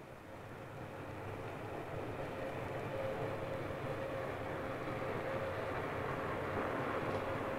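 Engine noise growing steadily louder, with a steady whine throughout.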